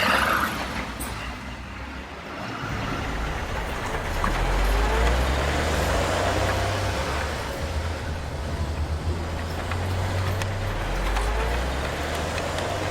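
Truck engine sound running and revving. It swells louder twice, with the pitch rising as it revs.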